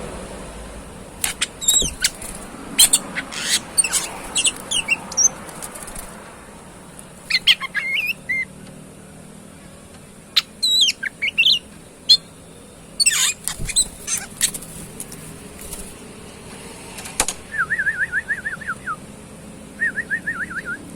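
Oriental magpie-robin (kacer) singing: bursts of sharp, varied whistles and chirps, then two fast rattling trills near the end.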